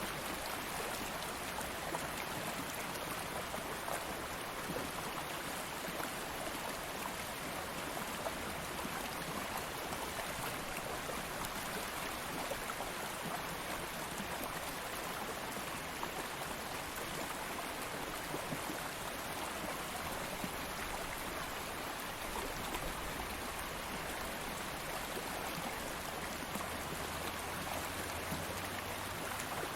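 Stream of water flowing steadily over stones, a constant rushing and babbling without pauses.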